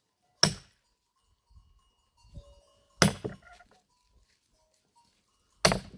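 Axe chopping firewood: three sharp strokes, each about two and a half seconds after the last.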